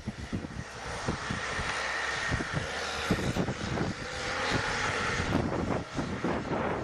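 Engine of a snow-clearing machine running while pushing snow, with a whine that swells and fades. Wind buffets the microphone throughout.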